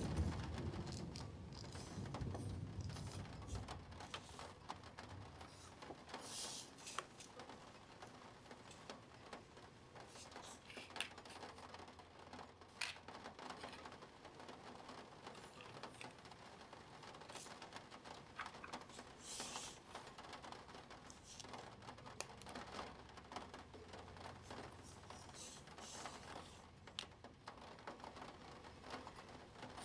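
Plastic Spirograph pieces being handled: quiet, irregular small clicks and taps, with a few brief scratching or rustling sounds.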